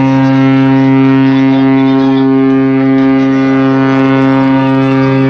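Cruise ship's horn sounding one long, deep, steady blast as the ship sails away.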